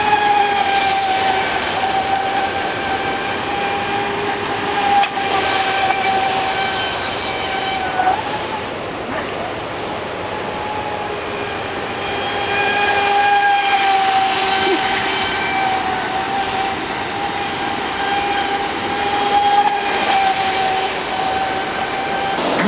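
Traxxas Spartan RC speed boat's brushless motor and drive whining at a steady high pitch as the boat runs at speed. The pitch dips briefly about a third of the way through, then holds steady again.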